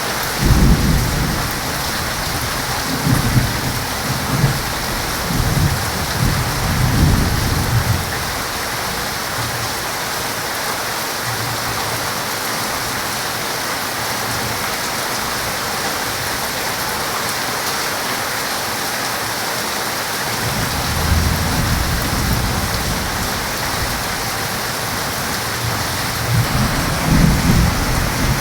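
Heavy rain falling steadily, with rolls of thunder rumbling over it near the start and again in the last third.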